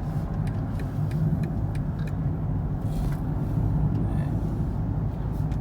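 Steady low rumble of road and engine noise inside the cabin of a 2019 BMW X5 with a 3-litre diesel, cruising at about 70–80 km/h.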